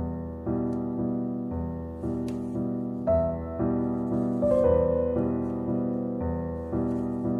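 Gentle background piano music, chords struck about twice a second, each fading before the next.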